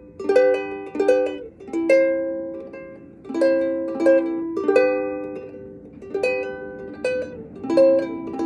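Solo acoustic plucked string instrument strumming chords in a steady rhythm, each chord left to ring out; an instrumental passage without singing.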